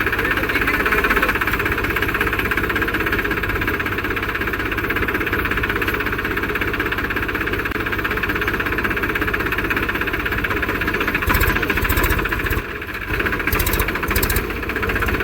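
Tractor diesel engine running steadily with a fast, even knocking beat; the level dips briefly twice near the end.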